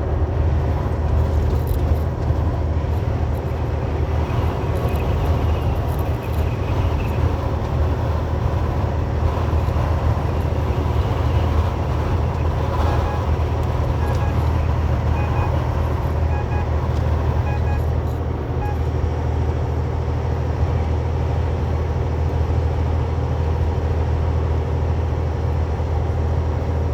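Semi truck's diesel engine droning steadily under load, heard from inside the cab, over a constant hiss of road noise.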